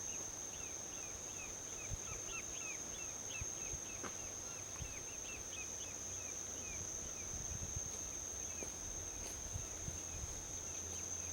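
Outdoor ambience: insects keep up a steady high trill, and a run of quick chirps, about four a second, carries on for the first several seconds before thinning out. Beneath them runs a low, distant highway traffic rumble.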